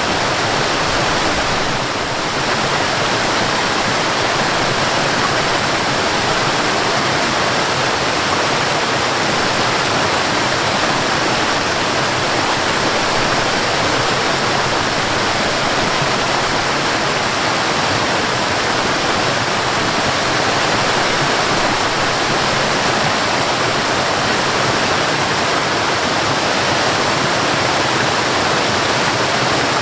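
Waterfall rushing steadily, an even wash of falling water with no changes apart from a brief slight dip about two seconds in.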